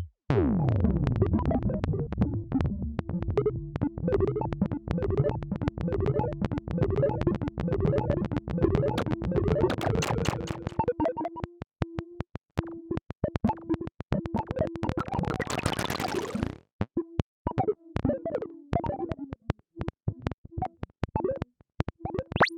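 Synthesized robotic sound effects: a falling electronic sweep, then rapid stuttering clicks and warbling bleeps over a steady tone that keeps cutting in and out. About two-thirds through, a rising hissing sweep cuts off sharply, and sparser clicks and blips follow.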